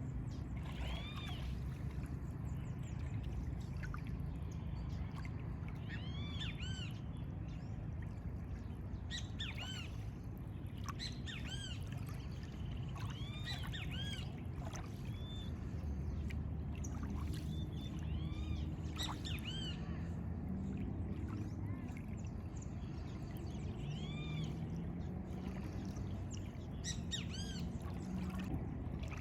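Birds calling in short, arched chirps, scattered irregularly and often several in quick succession, over a steady low rushing background.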